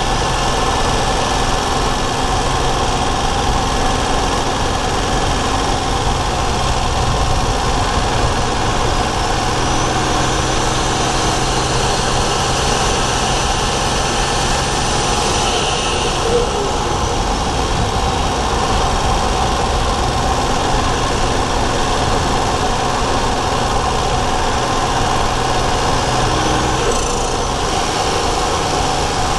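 Daihatsu Charade GTti's 1.0-litre turbocharged three-cylinder engine running steadily, heard from a microphone in the engine bay. A faint high whine rises and falls about halfway through, and again briefly near the end.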